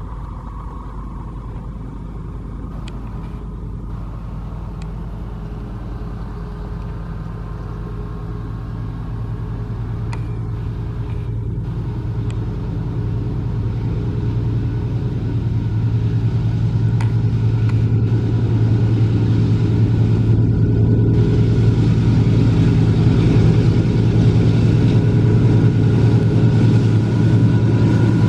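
GE AC44i diesel-electric locomotives approaching at speed, their diesel engines drumming steadily and growing gradually louder as the train nears.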